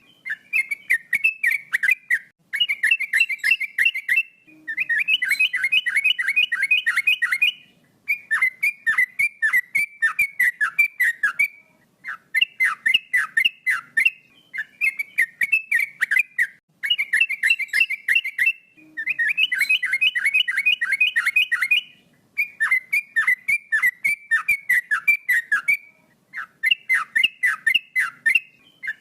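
Male yellow-vented bulbul (trucukan) singing: repeated bubbling phrases of quick, downward-slurred whistled notes, each phrase a few seconds long with short pauses between them. It sings steadily, as a male in full song does.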